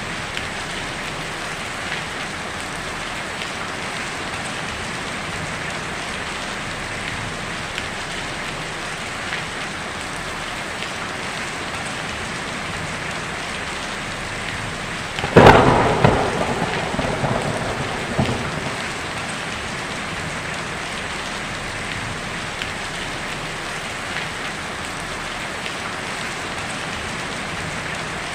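Heavy rain falling steadily on a tin roof, with scattered louder drops. About halfway through, a close thunderclap breaks in sharply and rumbles away over about three seconds.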